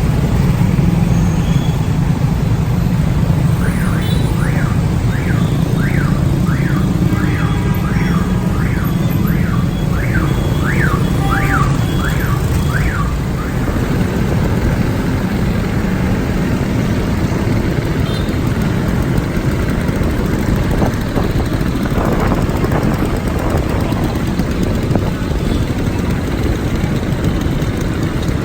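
Moving traffic heard from a motorcycle: a steady engine and road rumble with wind on the microphone. For about ten seconds, starting a few seconds in, an electronic alarm warbles up and down about twice a second.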